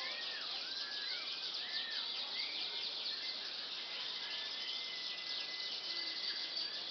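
Canaries calling: short whistled notes that rise and fall, then a long held whistle, over a dense steady chirring of rapid high chirps.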